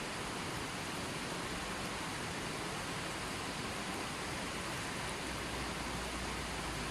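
Running water flowing steadily, an even rushing sound with no music.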